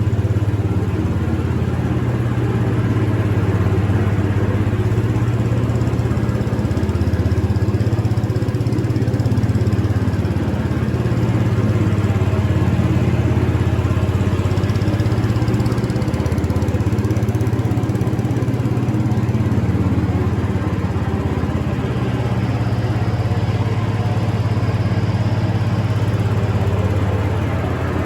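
Garden tractor engine running steadily, its low hum rising and falling slightly in pitch.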